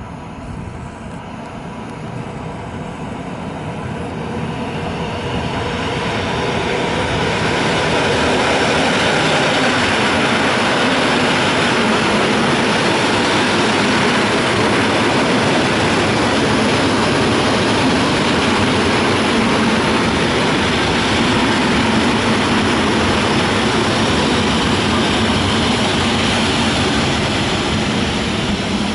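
EN57AKM electric multiple unit pulling into the platform. The rumble of its wheels and running gear grows louder over the first several seconds as it nears, then holds steady as the coaches roll past.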